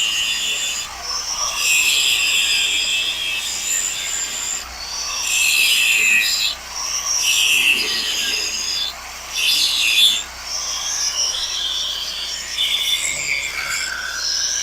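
Handheld grinder grinding out a stress crack in a steel scraper frame. Its high whine shifts in pitch and loudness every second or two as the disc bites into the metal and eases off.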